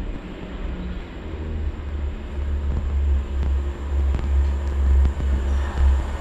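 Passenger train approaching out of a tunnel: a deep rumble that grows steadily louder, with more rushing noise building near the end.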